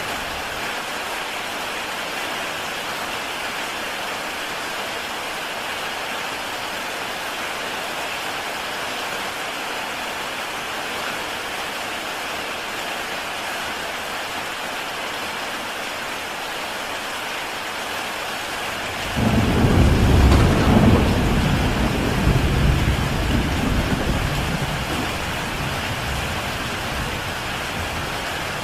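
Heavy rain falling steadily on a tile roof. About two-thirds of the way through, a clap of thunder breaks in suddenly as a loud, low rumble that dies away over several seconds.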